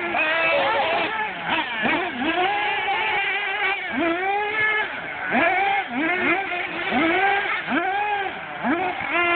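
Radio-controlled car's motor revving up and easing off over and over, a high pitch that rises and falls back about once a second as the car speeds up and slows.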